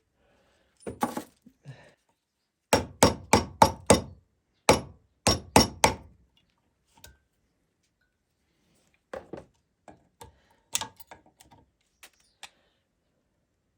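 Hammer striking metal: a quick run of about six sharp blows, a few more close after, then lighter scattered taps and clinks.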